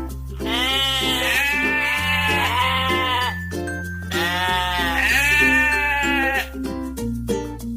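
Background music with a steady bass line and a stepping melody. Over it, a bleating sheep or goat gives long wavering calls in two bouts, then stops near the end.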